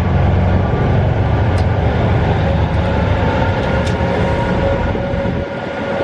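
KiHa 48 diesel railcar's engine droning under the floor as the train runs, with wind noise through an open window. About five seconds in, the low engine drone drops away, as when the throttle is eased off, leaving a steady whine and the running noise.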